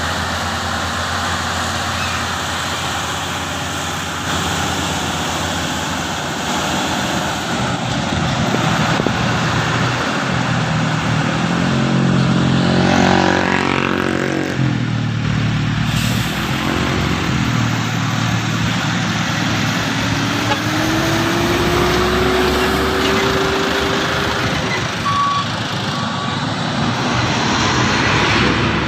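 Heavy loaded diesel trucks labouring up a steep grade, among them an old Nissan Diesel with a V10. The engines run loud and steady throughout. About halfway through, one engine's note climbs and falls away as it passes, and later another engine note rises slowly.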